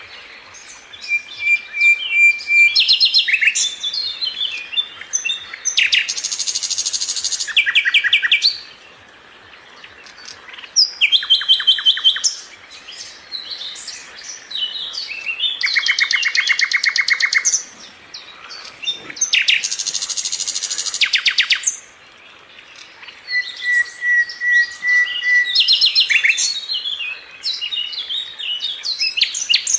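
Sikatan londo (a flycatcher) singing in a string of loud, busy phrases: very rapid buzzy trills, a few held whistled notes and quick chattering notes, with short pauses between phrases.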